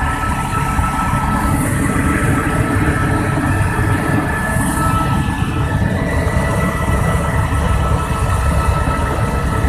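Helicopter turbine engine and rotor running: a steady, loud drone with a thin, steady high whine over it.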